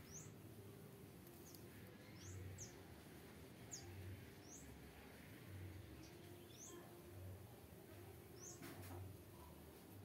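Small aviary birds chirping faintly: about ten short, high, thin calls, each dropping quickly in pitch, at irregular intervals. Under them a low hum swells and fades about every second and a half.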